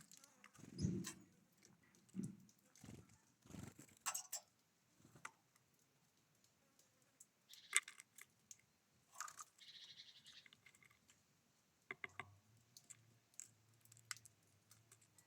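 Small wild birds at a feeder, faint: scattered pecking clicks and soft thumps, with a couple of short calls.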